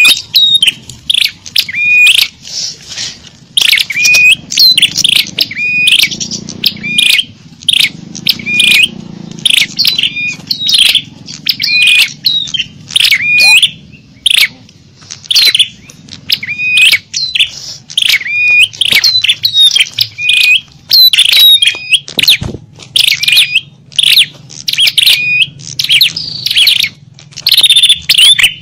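Bird-lure (pikat) recording of small songbirds calling: loud, rapid, repeated chirps and tweets with sharp up-and-down pitch sweeps, several a second, close together with short breaks.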